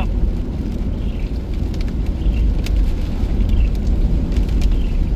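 Car cabin while driving in heavy rain: a steady low road and engine rumble, rain hitting the car in scattered taps, and a soft sweep recurring about once a second.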